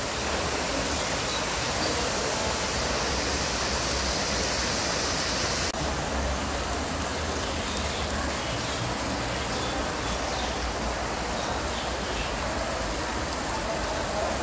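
Shredded yellow and red carrots sizzling in hot sunflower oil in a giant plov cauldron (kazan): a steady frying hiss, with a brief break just under six seconds in.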